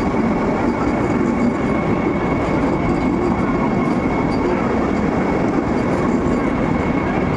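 Vande Bharat Express electric train running steadily, a continuous rumble of wheels on rail with a faint high steady whine over it.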